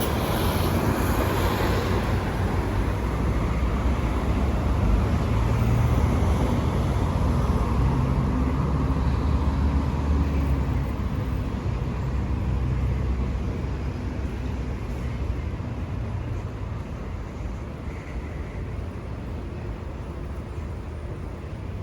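Street traffic: a passing motor vehicle's low engine rumble grows to its loudest around the middle and then fades away, over a steady hiss of road noise.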